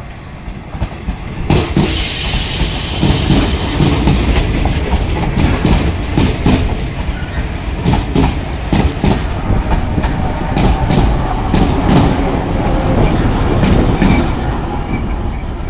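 Sri Lankan Railways diesel multiple unit (power set) passing close by, its wheels clattering over the rail joints with a dense run of knocks. It gets loud about a second and a half in as it draws alongside, and a few short high wheel squeals come through midway.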